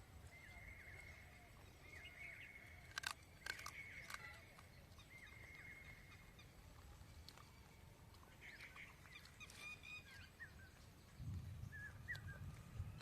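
Faint bird calls chirping on and off, with a few sharp clicks about three seconds in.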